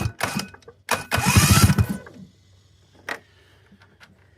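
Polaris 700 snowmobile two-stroke twin engine cranked over for about a second, with quick low compression pulses and a rising whine, turning over without firing during a spark check. A few knocks come just before it and a single click follows.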